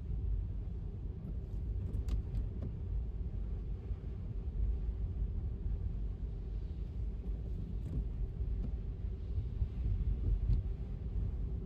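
Steady low road rumble of a car driving on wet pavement, with a few faint ticks.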